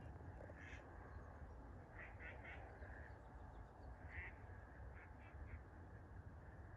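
Faint short bird calls in a few quick groups of two or three, over a low steady rumble.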